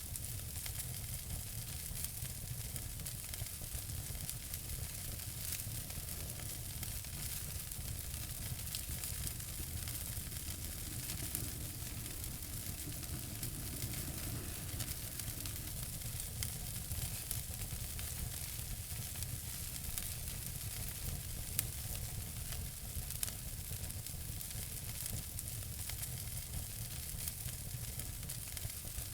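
Wood fire in a fireplace crackling steadily: many small pops and snaps over a constant hiss and low rumble, with a slightly louder pop about two-thirds of the way through.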